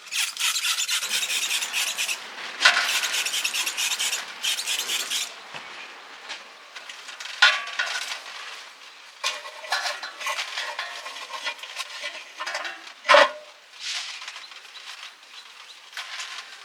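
Irregular scraping and rubbing strokes, with one sharp knock about thirteen seconds in.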